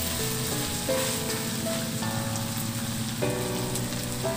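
Chicken pieces sizzling and frying in oil in a wok as they are stirred with a spatula. Background music with held chords that change about every second plays over it.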